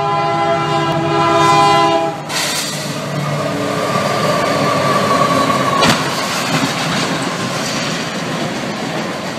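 A diesel freight locomotive's horn sounds for about two seconds and cuts off, followed by the train's steady rolling rumble. About six seconds in, a single sharp crash of impact is heard as the train strikes something at the crossing.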